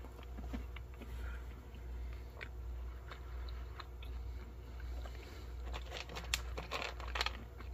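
Faint crunching of crisp freeze-dried fruit being chewed, with scattered small clicks. About six seconds in, sharper clicks and rustles come as fingers pick through the dry fruit cubes in a tray. A low steady hum lies underneath.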